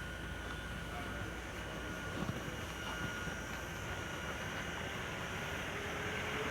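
City tram running: a steady rumble with a faint high whine that fades out about two seconds in.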